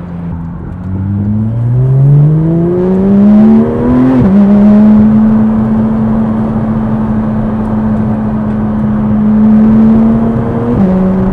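Porsche 992 GT3 RS's flat-six running through a valved titanium exhaust under acceleration. The revs climb, drop sharply with a quick upshift about four seconds in, hold steady for about six seconds, then drop with another upshift near the end.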